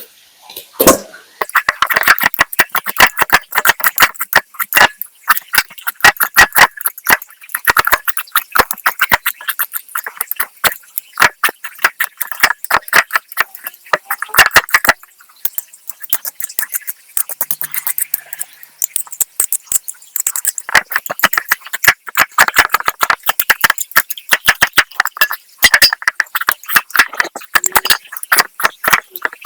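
Knife chopping rapidly on a cutting board: a long run of sharp strokes, several a second, with a couple of short pauses.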